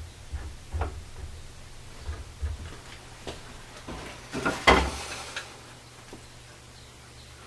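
Knocks and bumps of hands working on a wooden chair: several light knocks and thumps, then a louder clatter about halfway through. It quiets after that.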